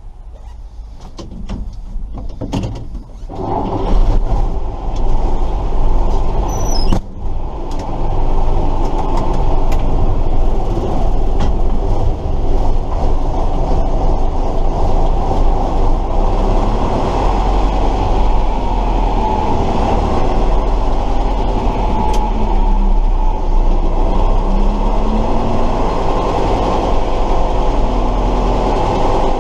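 Tatra 138 fire truck's V8 engine heard from on board. After a few clicks it comes in loud about three seconds in and then runs steadily.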